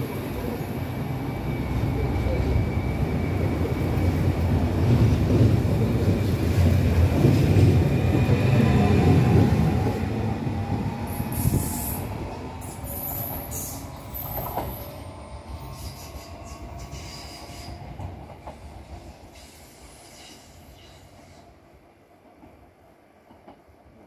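Electric regional train pulling away from the platform, its wheels rumbling and squealing on the rails under a steady motor tone. The sound swells to its loudest about halfway through, then fades away as the train leaves.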